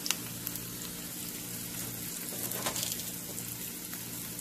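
Chopped onions and green chillies frying in oil with mustard seeds and turmeric in a nonstick pan, a steady sizzle, with two short scrapes of a plastic spatula against the pan, one right at the start and one under three seconds in.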